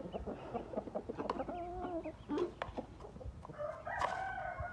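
Chickens clucking with short calls and a few sharp clicks; a longer drawn-out call begins near the end.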